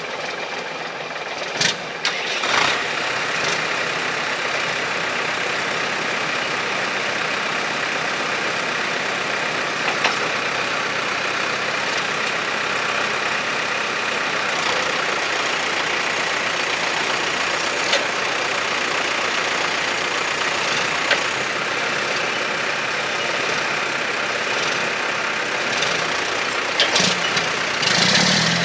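Mack R600 truck's diesel engine running steadily at idle, with a few short sharp clicks.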